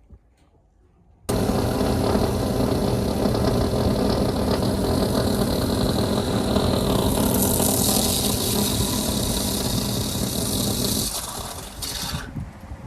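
Electric drill boring a pipe hole through a wall for an air-conditioner line. It starts abruptly about a second in and runs steadily, grows harsher and hissier about halfway through as it cuts deeper, and winds down near the end.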